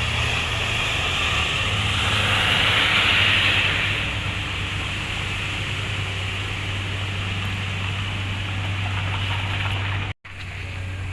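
Hino container truck's diesel engine running under load with a steady low drone, overlaid by a loud rushing hiss that swells a couple of seconds in. The sound cuts out for an instant near the end.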